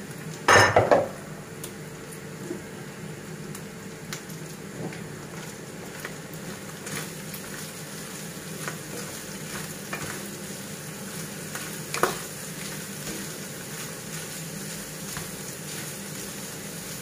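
Minced meat and chopped peppers sizzling steadily as they fry in a pan, stirred and scraped with a wooden spoon. A brief loud clatter about half a second in, and a single sharp knock about two-thirds of the way through.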